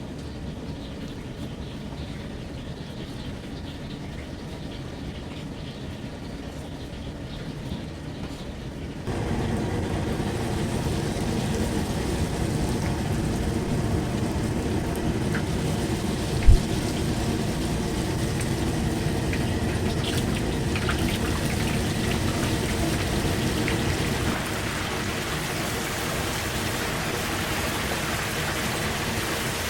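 Food frying in hot oil, a steady sizzling hiss that gets louder about nine seconds in, with one sharp knock about sixteen seconds in.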